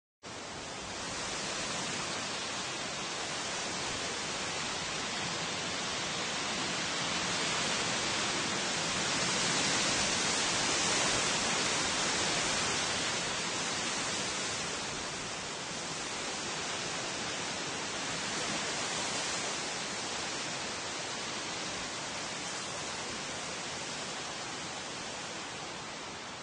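Wind blowing through tree foliage, a steady rushing rustle of leaves that swells to a stronger gust about halfway through and then eases back.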